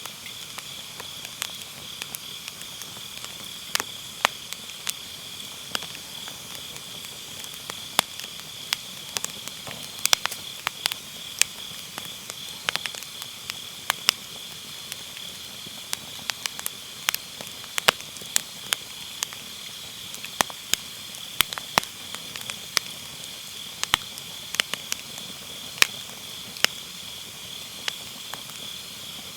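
Firewood burning in a fire pit, crackling with frequent sharp, irregular pops and snaps, over a steady high-pitched chirring of autumn grass insects.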